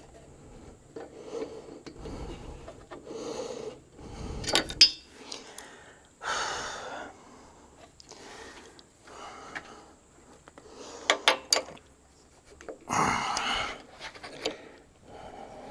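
Hand-tool work on an air valve's fittings: scattered metallic clicks, taps and clinks of wrenches and brass parts, with a sharp clank about five seconds in. There are two louder noisy stretches of about a second each, near six and thirteen seconds in.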